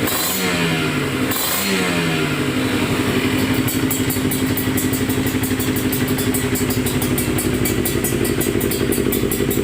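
Kawasaki Ninja 150R's two-stroke single-cylinder engine on a cold start: two short throttle blips near the start, each falling back, then a steady fast idle.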